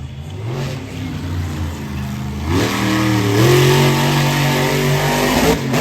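Monster truck engine revving: it runs low at first, then rises in pitch and gets louder about two and a half seconds in, holds at high revs, and drops off just before the end.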